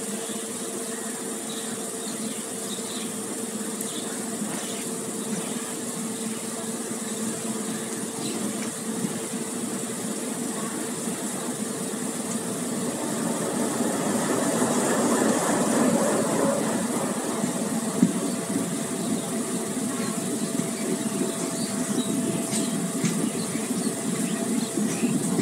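Passenger train running slowly, heard from the open coach door: a steady running rumble with a steady tone over it, growing louder after about thirteen seconds, and one sharp knock about eighteen seconds in.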